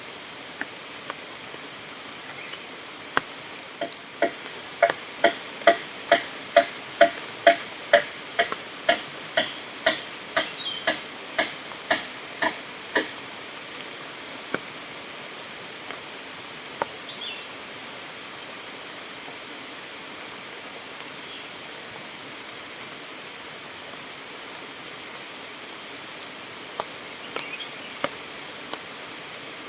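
A run of about twenty regular strikes from a hand tool, roughly two a second, each with a short ringing note, over the steady rush of a fast-flowing stream. A few single knocks follow later.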